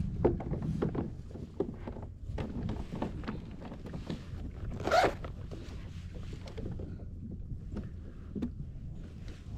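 Gear being handled in a fishing kayak while a fish is landed: scattered clicks, knocks and rustles, with one louder thump about five seconds in.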